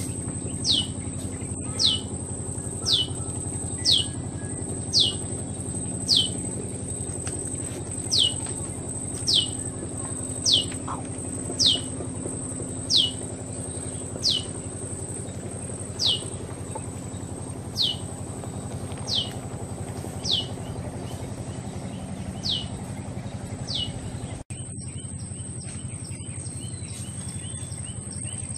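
A bird repeating a short, high whistle that falls in pitch, roughly once a second, over a steady high whine and a low hum. Near the end the sound cuts off abruptly and a different background with fainter chirps takes over.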